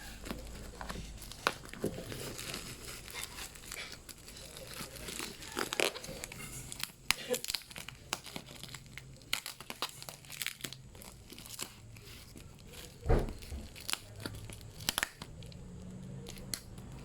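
Packaging being handled and unwrapped: plastic and paper crinkling and tearing, with scattered clicks and knocks.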